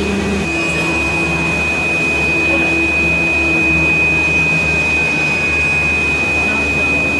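Steady machine hum with a constant high-pitched whine held throughout.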